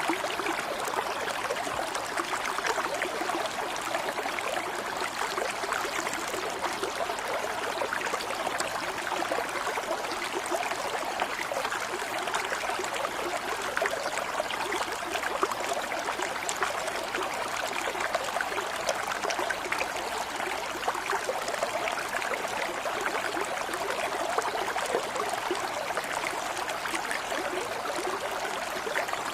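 Water flowing and trickling steadily, like a small stream, with a continuous fine bubbling texture and no breaks.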